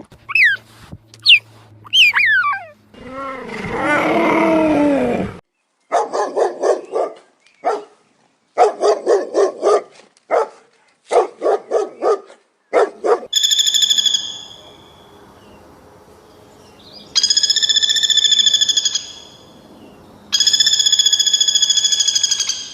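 A run of different animal calls one after another. First come short falling chirps, then a longer pitched call, then bursts of quick repeated bark-like calls, and last several long, steady, high-pitched calls.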